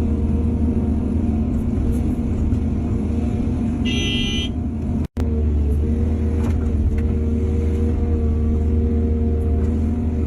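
Heavy diesel machinery engine running steadily with a low drone. A short, high-pitched toot sounds about four seconds in, and the sound cuts out for an instant about a second later.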